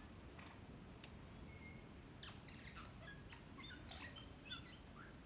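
A bird calling in a varied run of short chirps, clicks and brief whistles, the loudest about a second in and near four seconds.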